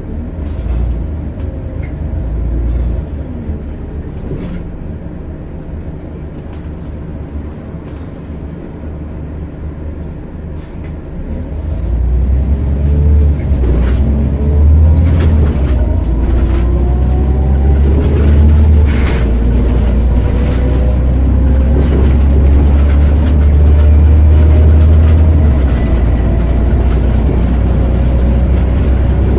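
Scania OmniCity single-decker bus heard from inside, from the front seat. The diesel engine runs quietly at first. About twelve seconds in it gets much louder as the bus accelerates, with a deep rumble and a whine that rises slowly in pitch. Short rattles and clicks from the bus body are scattered throughout.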